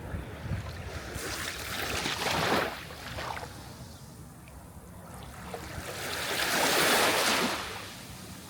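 Sea waves washing onto a shore: two waves surge in, about two seconds in and again near the end, each swelling to a loud hiss and falling away.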